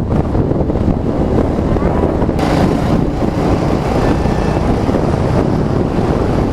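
Wind rushing over the rider's microphone with a TVS Star City Plus 110 cc single-cylinder motorcycle running underneath at road speed. The hiss grows brighter from about two and a half seconds in.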